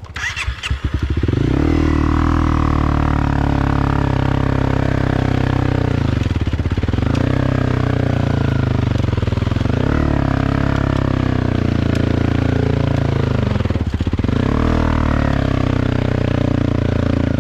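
A vehicle engine running steadily close by. It swells up over the first second or so, then holds an even, loud level.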